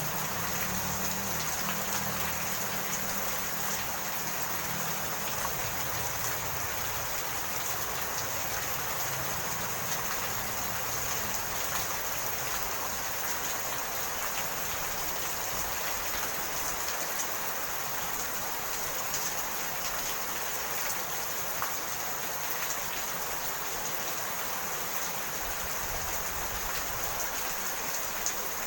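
Steady rain falling, an even hiss with scattered faint drop ticks. A low rumble sits under it for about the first ten seconds, then fades.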